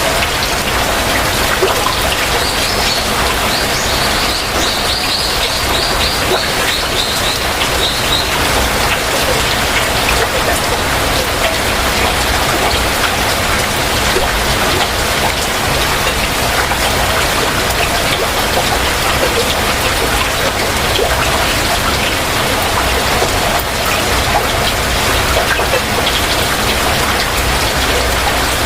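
Heavy rain falling steadily. From about two to eight seconds in, a bird gives a rapid trill of short notes that drops slightly in pitch toward its end.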